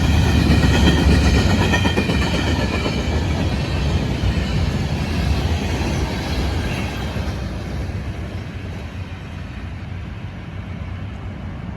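Florida East Coast Railway train rolling past on the rails, with a rumble of wheels and cars and a wavering high-pitched squeal from the wheels in the first few seconds. It fades steadily as the train moves away.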